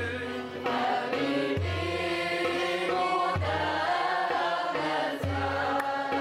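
Sacred music: chanting voices holding and shifting sung notes over a deep drum struck about every two seconds.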